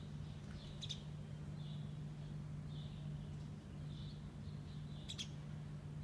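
Small bird chirping on the other side of a window pane: short high chirps about once a second, with two sharp ticks, one about a second in and one near the end, over a steady low hum.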